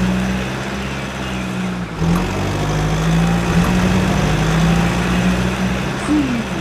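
Motorcycle engine running steadily as a sound effect, with a short break about two seconds in.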